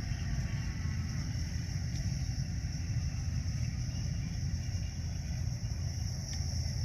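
Outdoor nature ambience: a steady, high-pitched buzz of insects such as crickets over a continuous low rumble.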